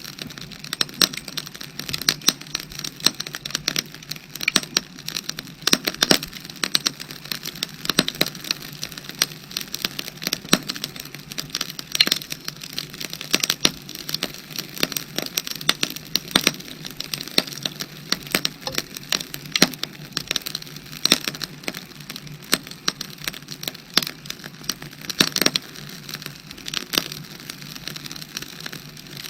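Burning firewood crackling and popping, a dense run of irregular sharp snaps.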